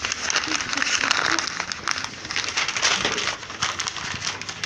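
Bonfire crackling: a steady hiss with many small, rapid pops.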